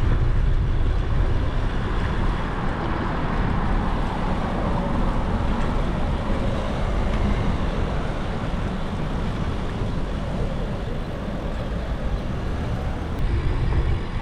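Road traffic heard from a moving e-bike, under a heavy, steady low rumble of wind on the action camera's microphone. A faint gliding engine tone rises and falls in the middle.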